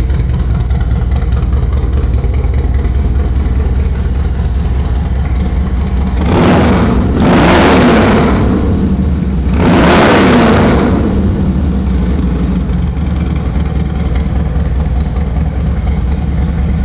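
2005 Harley-Davidson Dyna Wide Glide's Twin Cam 88 V-twin idling through a Vance & Hines 2-into-1 exhaust, revved twice about six and ten seconds in, then settling back to idle. It sounds good, running healthily.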